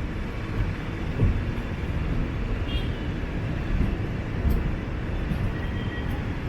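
Passenger train running on the track as it gathers speed out of a station: a steady rumble of the coach and wheels on the rails, with a few faint clicks.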